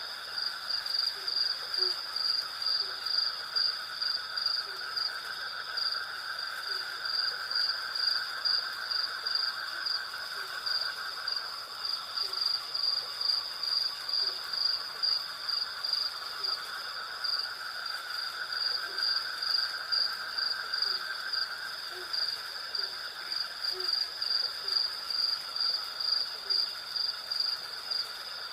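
Night chorus of crickets and cicadas: a high chirping that pulses about two to three times a second over a continuous insect buzz, with faint short low calls scattered through it.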